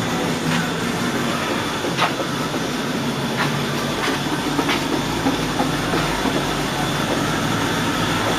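1961 Buick LeSabre's 364 Nailhead V8 idling steadily after a cold start, warmed up and running smoothly, with a few sharp clicks in the first five seconds.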